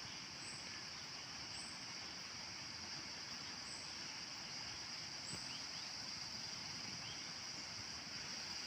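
Steady high-pitched drone of insects with a few faint, short bird chirps scattered through it.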